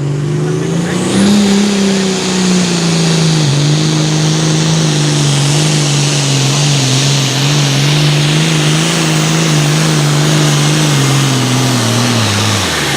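Super Farm diesel pulling tractor's engine at full throttle under load on a pull. Its pitch climbs about a second in and holds steady over a strong high hiss, then drops away just before the end as the engine backs off.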